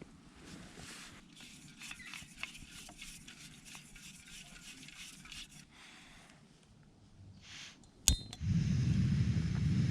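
Camping cookware clinking and rustling as it is handled, then about eight seconds in a sharp click and a portable gas stove burner lights, running with a steady loud rush.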